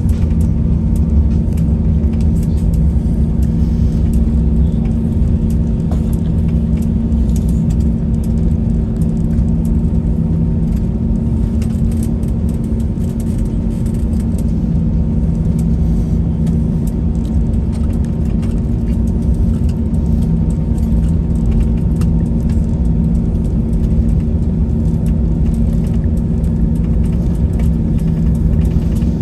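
Airbus A321-200 cabin noise: the jet engines running with a steady hum and low rumble that holds at one level throughout, without the rising surge of a takeoff roll.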